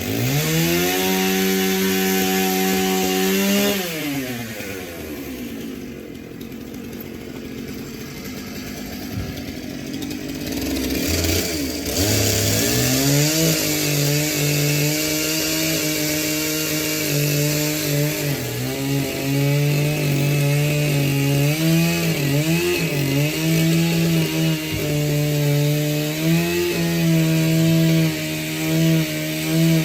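Gas chainsaw revved at full throttle for a few seconds and let back to idle. About twelve seconds in it revs up again and runs at high speed for the rest, its pitch dipping now and then as it bogs under load while cutting.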